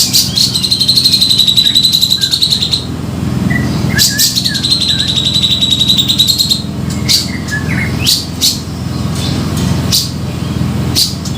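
Brown-cheeked bulbul (cucak jenggot) calls played as a trapping lure. There are two long, fast chattering trills of about two and a half seconds each, then a run of short, sharp chirps, over a steady low hum.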